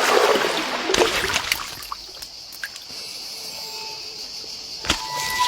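Water splashing and trickling, loudest in the first second or so, over a steady high hiss, with a sharp knock near the end.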